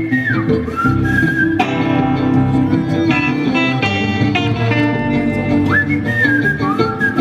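Live band music in an instrumental passage: a whistled melody sliding up and down over plucked guitar and a steady band backing. The whistled phrases come near the start and again near the end.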